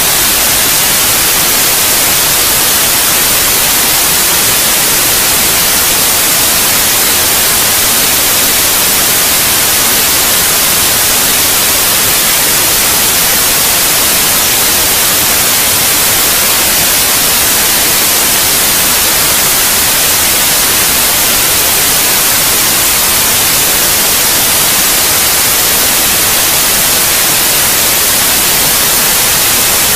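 Steady white noise, an even, unchanging hiss strongest in the highs, played as a sleep aid for babies.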